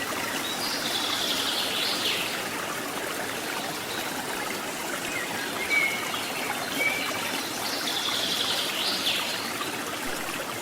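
Steady rush of flowing river water near a waterfall. A bird gives the same call twice, about seven seconds apart, with a few short thin whistles in between.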